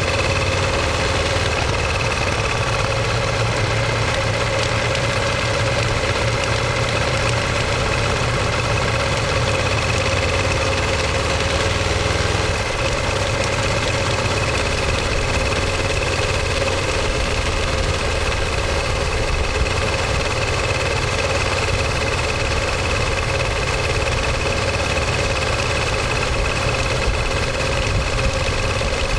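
Ducati Monster 1200 S's L-twin engine and exhaust running at a steady, even note, with no revving.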